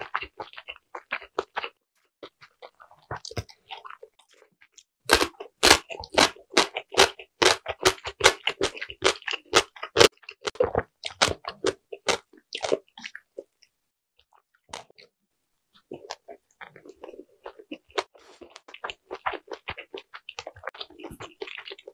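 Close-miked chewing of a mouthful of dumplings: wet mouth clicks and smacks, thickest from about five seconds in, then a lull of a few seconds, then steady chewing again near the end.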